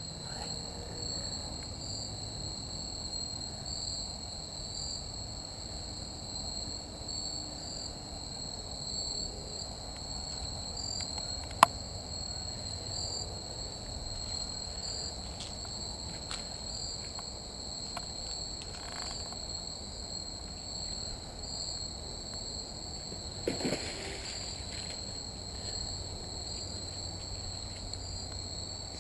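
Steady, pulsing chorus of insects. A single sharp click about twelve seconds in, and a couple of brief knocks near the end.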